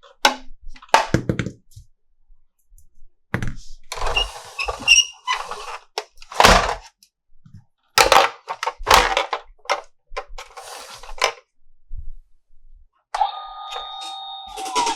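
Plastic toy parts and packaging being handled: a series of sharp clicks and knocks with short bursts of crinkling and rustling. Near the end an electronic toy sound effect starts, a steady beeping tone.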